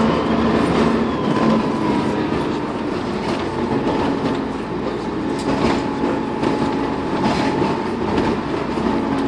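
Dennis Trident 2 double-decker bus under way, its diesel engine running with a thin turbocharger whistle that holds and drifts slowly lower. Scattered sharp clicks and rattles sound over it.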